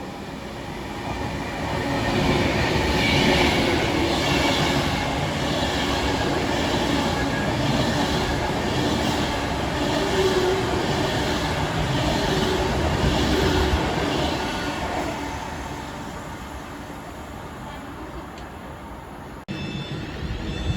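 A train passing by: the sound builds over the first couple of seconds, holds with a regular clatter of wheels over the rails about once a second, then fades away, cutting off abruptly near the end.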